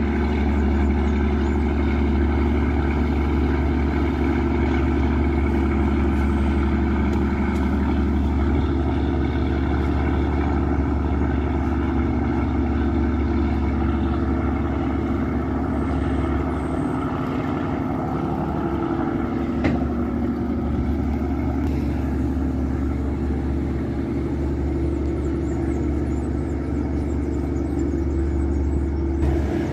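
Yanmar 829 hp marine diesel engine of a river passenger boat running steadily under way, a constant low drone with steady overtones. A single sharp click sounds about twenty seconds in.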